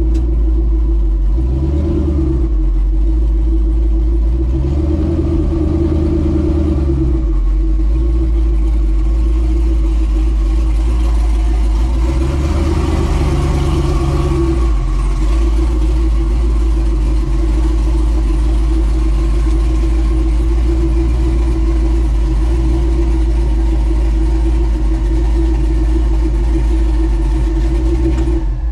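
Twin-turbo, cammed LS V8 in a Ford dentside pickup running under way on the road, a steady loud drone that shifts a little in the first few seconds and grows harsher for a few seconds about twelve seconds in.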